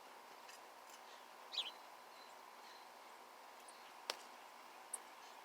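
Small birds at a bird feeder giving a few short, high chirps over a faint steady hum, with one sharp click a little past the middle.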